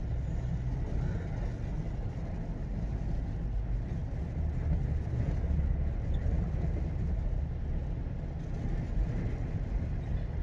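Steady road noise inside a moving car: a low rumble of the engine and tyres running on a rain-wet road.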